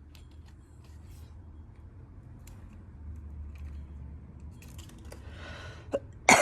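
Low steady hum with scattered faint clicks. Near the end there is a short breathy huff, then one sudden loud bark from a dog.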